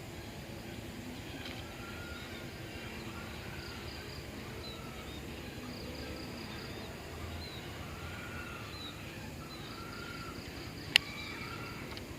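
A tengkek buto calling outdoors: short arched calls repeated about once every second or two, over a steady hiss of insects, with fainter high chirps. A single sharp click about eleven seconds in.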